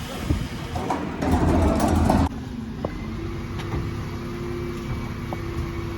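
Dennis Elite 6 refuse truck at work: a loud rushing mechanical noise for about a second that cuts off abruptly, then a steady machine hum with a few light clicks.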